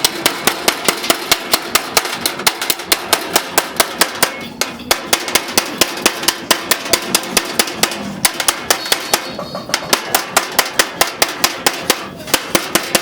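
Hammer striking the sheet metal of a car door in a rapid, even rhythm, about four or five blows a second, with two short breaks about five and ten seconds in.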